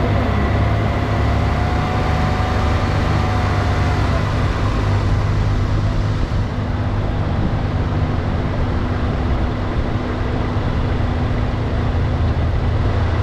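R56 MINI Cooper S's 1.6-litre turbocharged four-cylinder running steadily at low revs, with a faint whine that fades out about four seconds in and the higher road and engine noise easing a little after six seconds. The engine is in limp mode with its turbo disabled after a check-engine fault.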